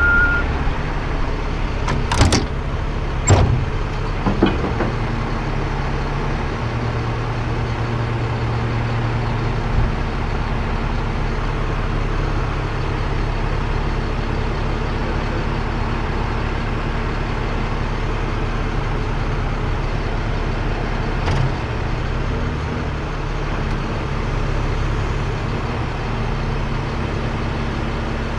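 Heavy truck engine idling steadily, with a few sharp clunks in the first five seconds and another about 21 seconds in.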